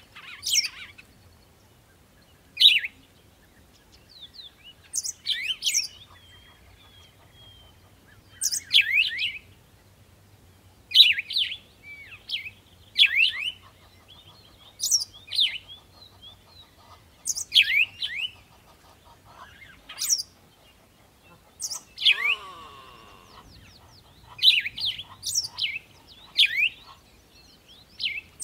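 A bird chirping repeatedly: short phrases of two or three sharp, high, falling notes about every two seconds. A different, lower sweeping call comes in about twenty-two seconds in.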